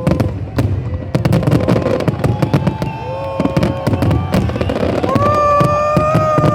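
Fireworks going off in a rapid series of sharp bangs and crackles. A loud held tone with overtones, from a voice or horn in the crowd, sounds over the bangs from about five seconds in.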